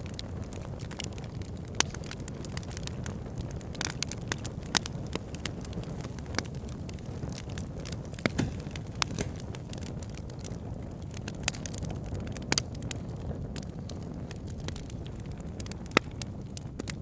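Wood fire burning in a fireplace: a steady low rush of flames with irregular sharp crackles and pops, a few louder pops about two, five and sixteen seconds in.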